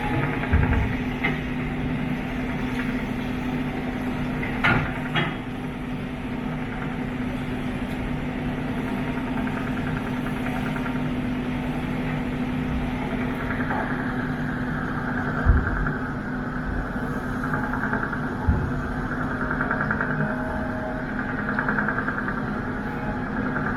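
Boat engine running steadily, a constant low hum under a rushing noise, with a few low thumps and a couple of short clicks.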